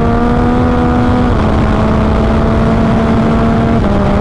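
Yamaha MT-09's inline-three engine pulling hard at high revs in fifth gear, with wind noise. Its pitch dips slightly twice. This is a full-throttle run to test whether the clutch still slips at the top end.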